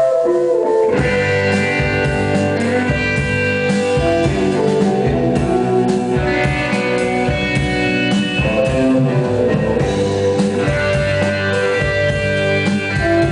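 Live rock band playing, with guitar to the fore over a drum kit, at a steady loud level.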